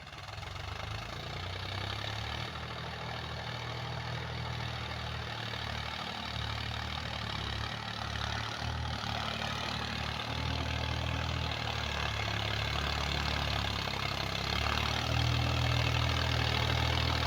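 Mahindra Yuvo 275 DI 35 HP tractor's diesel engine running steadily while it pulls a rotavator, growing gradually louder, most of all from about fifteen seconds in.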